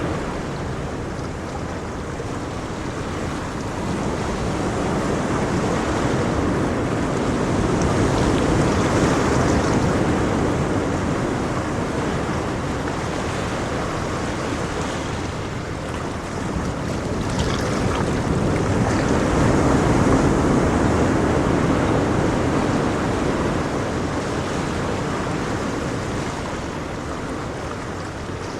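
Ocean waves breaking on a shore: a steady wash of surf that swells and fades, with two broad surges about ten seconds apart.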